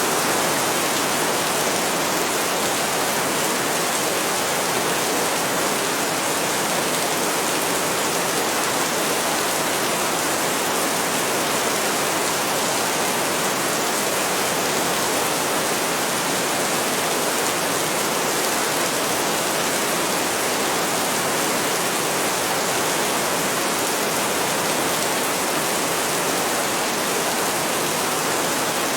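Heavy rain falling steadily: a dense, even hiss with no breaks or thunder claps.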